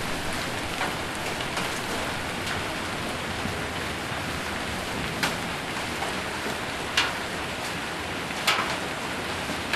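Hail and rain drumming steadily on a metal roof, with a few louder single hailstone strikes standing out, the strongest about five, seven and eight and a half seconds in.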